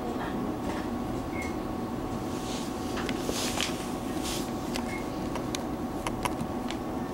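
Cabin of a Taiwan Railways EMU700 electric commuter train rolling slowly away from the station: a steady interior hum of air conditioning and running gear, with scattered sharp clicks and ticks that come more often in the second half.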